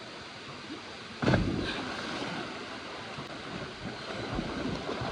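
Steady rush of a waterfall and its pool, with a sudden loud thump and rush of noise about a second in.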